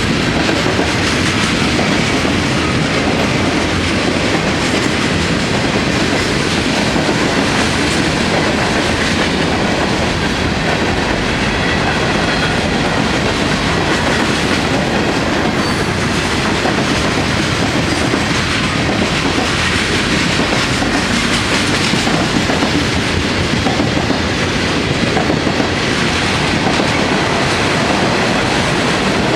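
Freight cars of a long train rolling past steadily, wheels clattering over the rail joints with a constant loud rumble.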